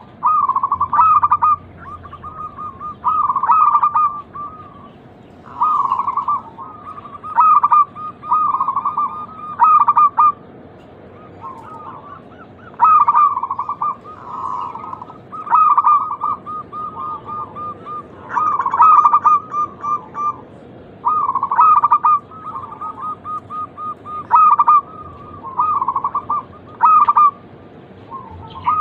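Zebra doves (perkutut) singing their trilled cooing song. Phrases pitched near 1 kHz, each with short rising notes on top, repeat every one to two seconds without a break.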